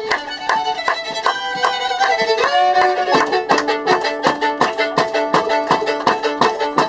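Fiddle playing a lively tune with a fast, steady beat of sharp strikes underneath.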